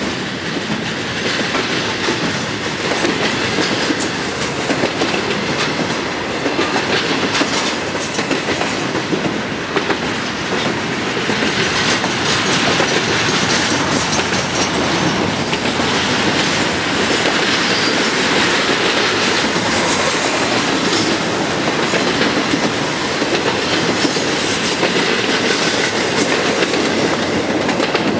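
Double-stack intermodal container train passing close by: a steady rolling rumble and rattle from the well cars and their wheels on the rails, with repeated wheel clicks.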